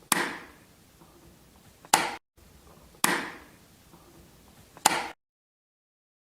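A household knocking sound played twice: each time a sharp knock with a short ringing fade, then a second sharp knock just under two seconds later.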